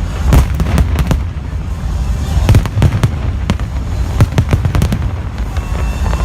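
Fireworks display: a rapid, continuous series of sharp bangs and booms, several a second, over a deep rolling rumble.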